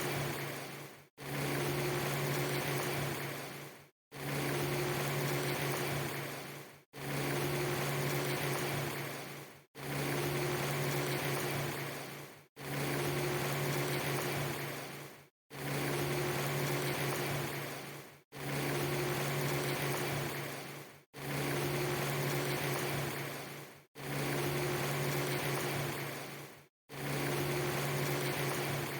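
A steady hiss with a low hum, played as a short loop that repeats about every three seconds. Each pass fades toward its end and is cut by a brief silence before the next.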